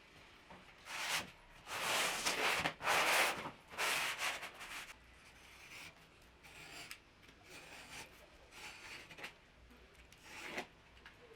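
Abrasive rubbing strokes worked by hand on a workpiece: a run of loud back-and-forth scrubbing strokes over the first few seconds, then lighter, shorter strokes.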